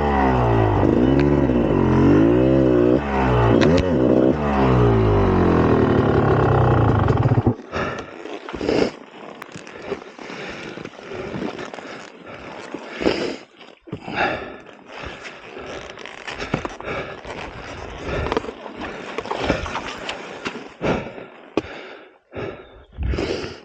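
2004 GasGas EC300's two-stroke engine running, its revs rising and falling, then cutting off suddenly about seven and a half seconds in. After that come irregular scrapes and rustles.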